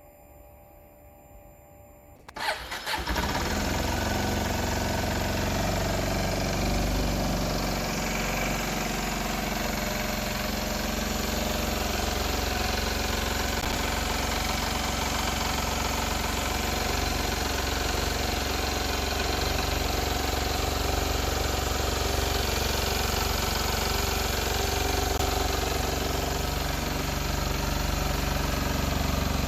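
2023 Kawasaki Ninja 125's liquid-cooled 125cc single-cylinder engine is started about two seconds in, after a faint steady whine, and then idles steadily.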